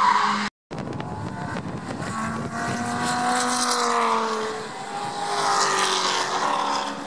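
Race car engines on a road course, their notes rising and falling as the cars accelerate and lift through the corners. The sound drops out briefly about half a second in.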